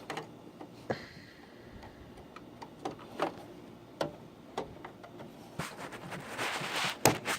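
Scattered light clicks and knocks, about one a second, as computer parts are handled, with a rustle of handling that grows louder near the end.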